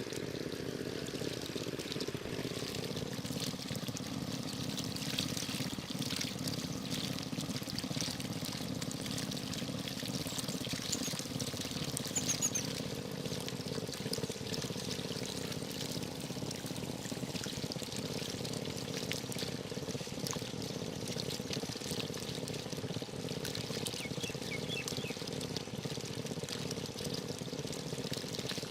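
Water pouring and trickling steadily, with a few faint bird chirps.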